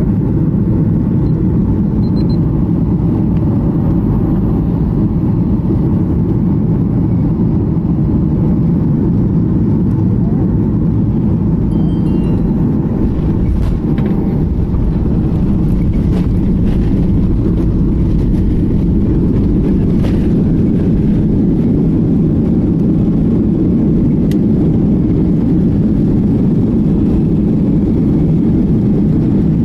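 Steady cabin noise inside a Boeing 737-800 on approach: the drone of its CFM56 turbofan engines and airflow over the fuselage, heard from a rear window seat.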